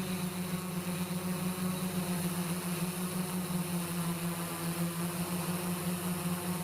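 Steady mechanical hum at a constant pitch, with a hiss over it, cutting off abruptly near the end.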